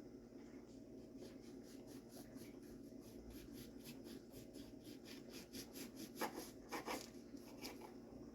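Kitchen knife slicing on a cutting board in quick, even strokes of about four a second, with two louder knocks about six and seven seconds in, over a steady low hum.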